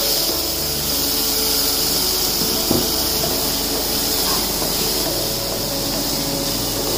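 Chopped onions and tomatoes frying in oil in a pan, a steady sizzling hiss as they are stirred with a wooden spatula.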